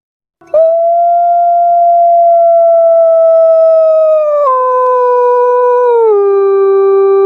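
A puter pelung dove giving a long, drawn-out call held on one steady pitch. About halfway through it steps down in pitch, then steps down again near the end, and it is still sounding at the end.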